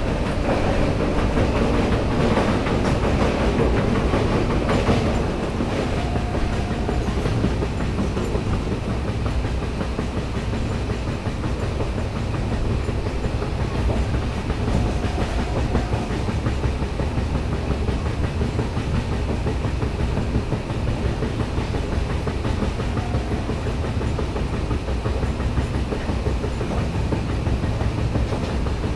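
LHB passenger coach running at speed, heard from its open doorway: a steady rumble and clatter of wheels on rails, louder for the first five seconds or so.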